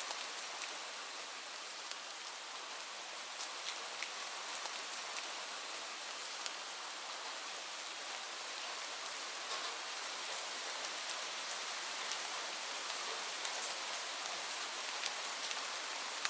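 Steady rain falling on leaves: an even hiss with many sharp individual drop ticks scattered through it.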